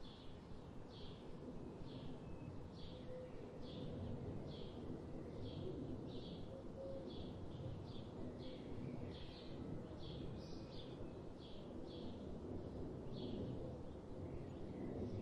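A single bird repeating a short, high chirp about three times every two seconds, over a steady low background rumble.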